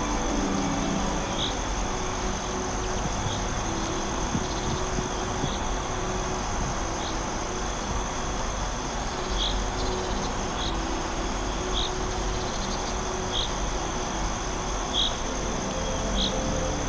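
Forest insects: a steady high trill with short chirps repeating every second or two, over a steady rushing background.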